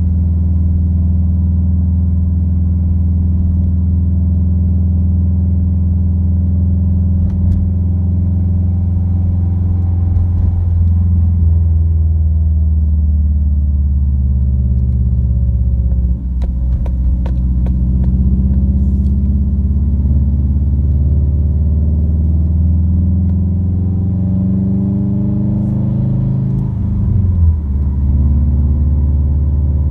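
Subaru WRX flat-four with an Invidia dual N1 cat-back exhaust droning in the cabin at cruise: a loud, steady low hum whose pitch drifts slightly as the speed changes. About halfway through there is a brief patch of clicks and knocks, like road bumps.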